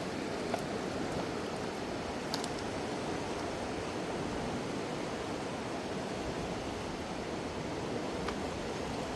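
Fast mountain river rushing steadily over rocks, with a few faint clicks.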